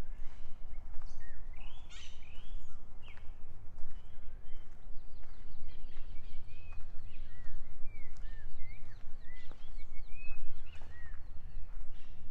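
Several birds chirping in short, quick curved notes, with a thin high steady trill through the middle, over a constant low rumble and the occasional thud of footsteps.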